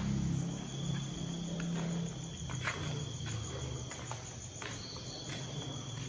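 Crickets trilling steadily, with scattered footstep-like clicks and a low droning hum underneath.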